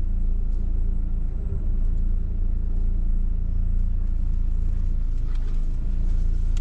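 Changhe Suzuki Beidouxing small car driving, heard from inside: steady engine and road rumble on a test drive after a tyre puncture repair.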